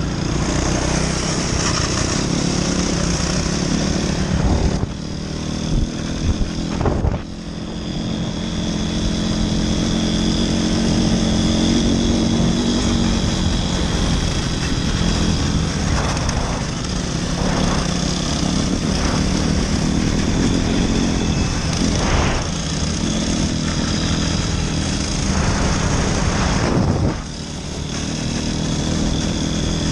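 Motoland RT200 dirt bike's engine running under way, the throttle opening and closing so the engine note rises and falls, with a few brief drops as the rider eases off.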